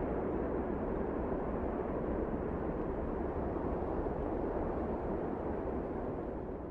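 Wind blowing steadily as a low, even rush without whistling, easing a little near the end.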